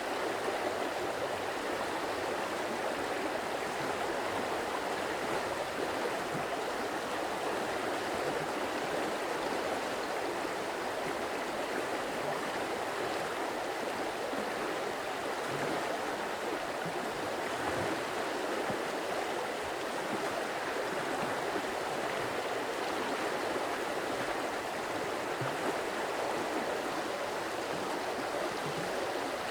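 Stream water running steadily, an even rushing wash with small low gurgles scattered through it.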